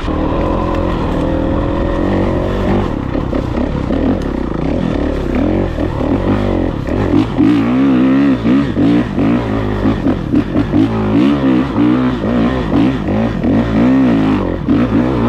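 Dirt bike engine running under load while being ridden over rough ground. The pitch climbs steadily over the first few seconds, then rises and falls rapidly again and again with repeated throttle blips from about seven seconds in.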